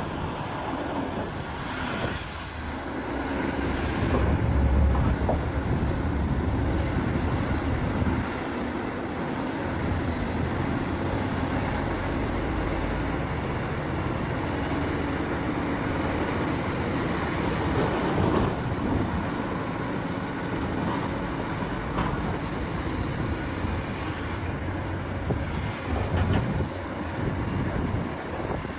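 Heavy diesel mining machinery at work: large engines running under load with hydraulic digging and loading. A deeper, louder rumble comes about four to eight seconds in.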